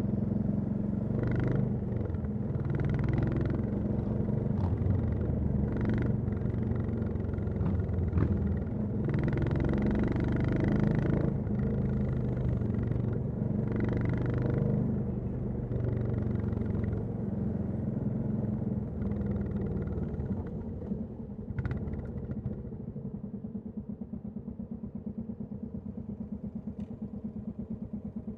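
Royal Enfield Classic 350's single-cylinder engine and exhaust, with the revs rising and falling several times as it is ridden. In the last few seconds it drops back to an even idling thump.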